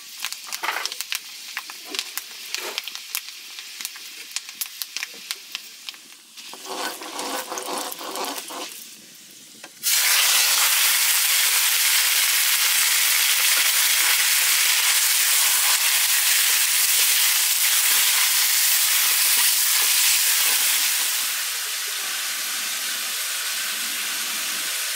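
Light clatter of kitchen utensils, then about ten seconds in a loud, steady sizzle starts abruptly as food goes into hot oil in a pan, easing slightly a few seconds before the end.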